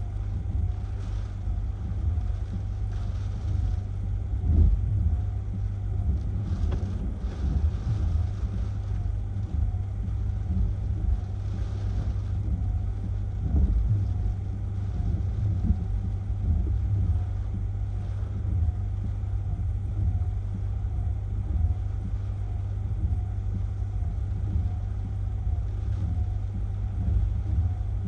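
Strong hurricane wind buffeting the microphone: a continuous low rumble that swells and dips with the gusts.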